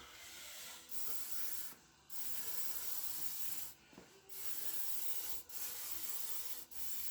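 Aerosol can of spray lubricant hissing in about six short bursts with brief pauses between them, as lube is sprayed onto a motorcycle drive chain.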